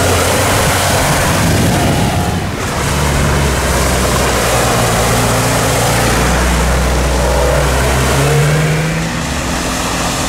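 SUV engines running under load as the vehicles drive through deep muddy ruts, with tyres churning and throwing mud. The engine note shifts twice.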